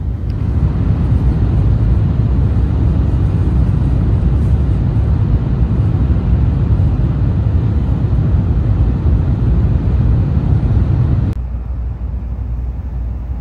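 Shinkansen bullet train's running noise heard inside the passenger car: a steady low rumble with a hiss above it. About eleven seconds in it drops suddenly to a quieter, thinner rumble.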